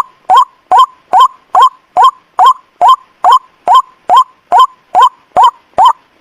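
White-breasted waterhen (ruak-ruak) calling, played as a night lure call: a short, rising 'kwak' note repeated at a very even rate, about two and a half notes a second.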